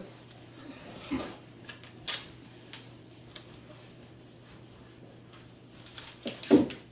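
Quiet work on a cabinet door: a few faint scattered taps and light rubbing, over a steady low hum. A louder short sound comes near the end.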